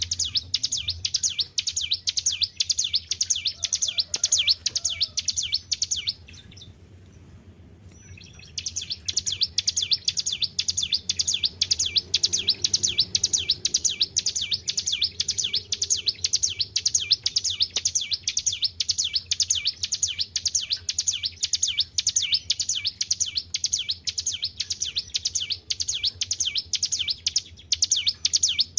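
Ciblek gunung, a prinia, singing non-stop: a fast, even run of high, sharp repeated notes, pausing for about two seconds early on before going on. A faint low hum lies underneath.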